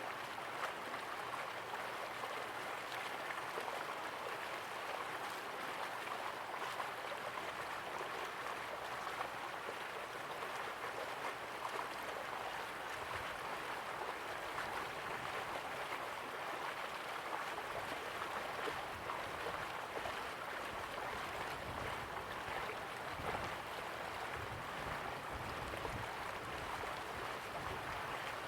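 River water flowing steadily, an even rushing with small splashes and gurgles, and some low rumble in the second half.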